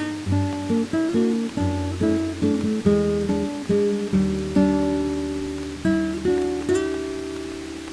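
Acoustic guitar music: chords plucked and strummed about twice a second, each left to ring, with a longer ringing chord near the end.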